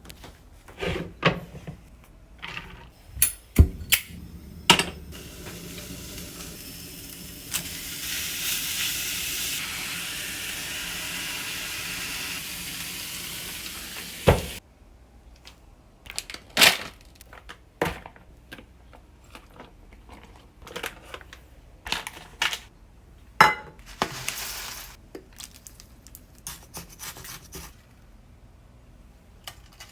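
Cooking sounds: cookware and utensils clinking and knocking several times. A steady hiss runs for about seven seconds and stops suddenly, and a second, shorter hiss comes later.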